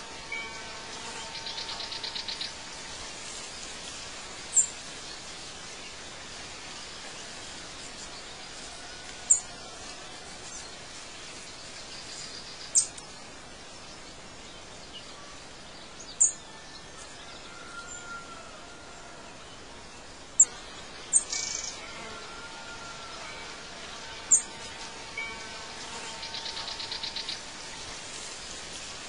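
Birds chirping: short, high chirps every few seconds over a steady hiss, with a brief buzzing trill near the start and again near the end.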